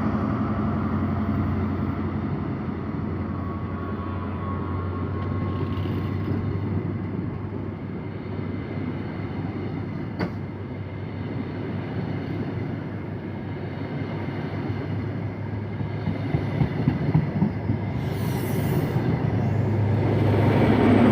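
A GWR High Speed Train running past: diesel engine hum from the Class 43 power cars and the rumble of the coaches. It grows louder near the end as the rear power car comes by.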